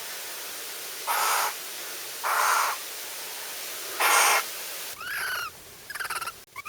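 Three harsh, rasping bird calls about a second apart, then shorter, higher calls that bend in pitch near the end, over a steady hiss.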